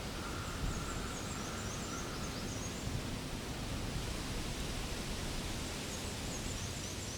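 Steady hissing outdoor background noise, with a faint series of high chirps early on and again near the end, and a faint thin tone for the first couple of seconds.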